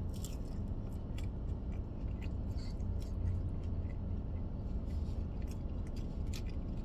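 A person chewing a mouthful of fries, with scattered small clicks of chewing and the fork, over a steady low hum inside a car's cabin.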